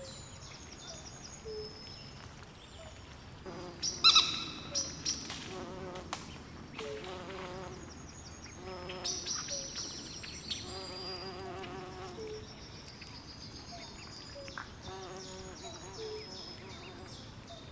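Swamp night ambience: a chorus of frogs and insects calling, with many short repeated calls and trills, low and high. One louder call stands out about four seconds in.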